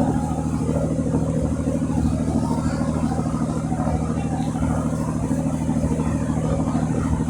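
A boat's engine running steadily at constant speed: a low, even drone with a fast pulse.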